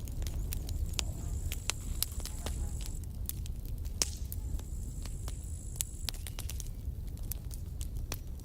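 Campfire burning, wood crackling with irregular sharp pops several times a second over a low steady rumble. A thin high whistle sounds twice for a second or two.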